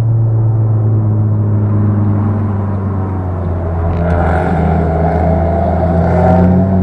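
Car engine heard from inside the cabin, running at steady revs with a constant low drone. From about four seconds in, a brighter engine note rises slowly for a couple of seconds, then eases off near the end.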